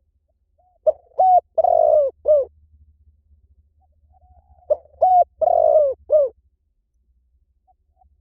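Spotted dove cooing: two calls about four seconds apart, each a phrase of four coos, two short, then a longer one, then a short one.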